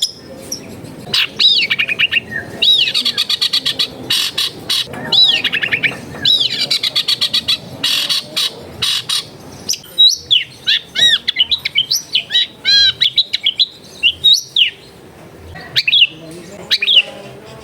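Long-tailed shrike (cendet) singing: fast runs of repeated chirps and arched whistled notes, broken by sharp clicking notes, the pattern changing every second or two.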